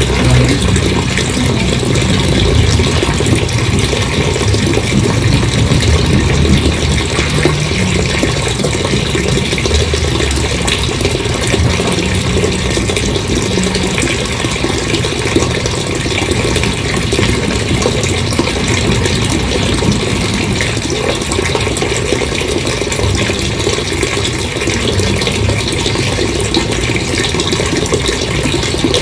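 Large volume of water gushing out in a steady, loud rush, with a low rumble underneath.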